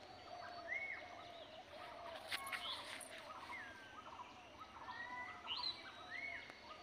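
Birds calling: a mix of short chirps and whistled notes that rise and fall, with an arching call about a second in and again near the end. A brief sharp click comes about two and a half seconds in.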